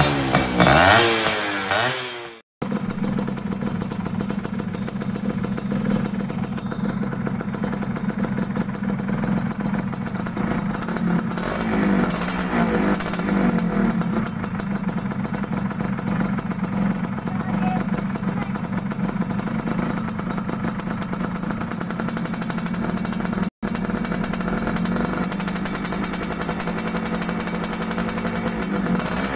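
Music for about the first two seconds, then a Yamaha F1ZR's single-cylinder two-stroke engine idling steadily through an aftermarket racing exhaust. The sound cuts out for an instant near the end.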